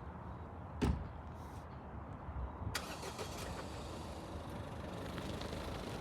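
Low vehicle rumble with a single sharp knock about a second in, then a rushing hiss that starts suddenly about three seconds in and carries on.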